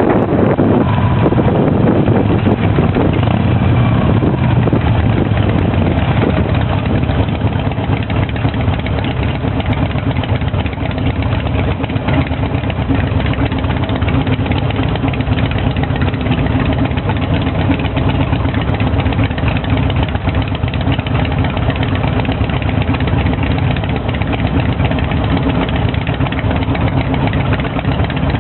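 Harley-Davidson V-twin motorcycle engine running steadily at a low, even pitch.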